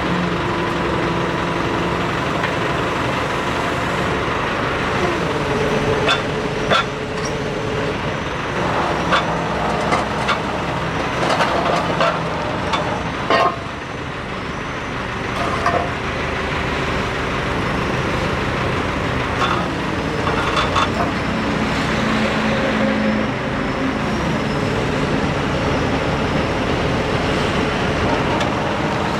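A heavy engine running steadily, its pitch shifting up and down, with a run of sharp metal knocks and clanks in the first half.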